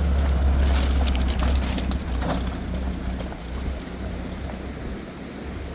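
A motor vehicle's engine running with a deep low rumble that slowly fades, with wind and a few scattered clicks over it.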